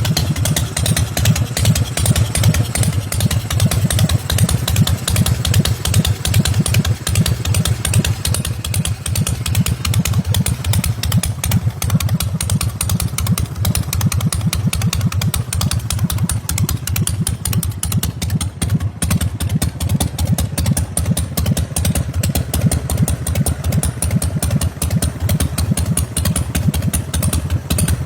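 Custom chopper motorcycle's engine running steadily at idle, a fast, even chain of deep exhaust pulses with no revving.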